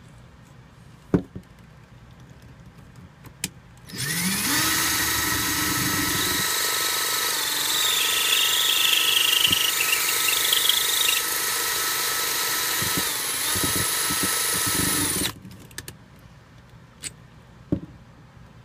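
Electric drill winding up about four seconds in and running steadily for about eleven seconds, its bit boring into the plastic flow restrictor inside a faucet's pull-out spray hose, then stopping. A few light clicks before and after.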